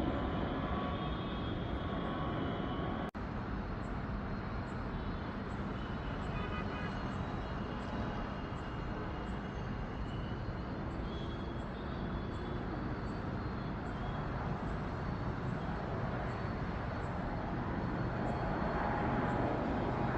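Steady drone of an aircraft, with a brief dropout about three seconds in.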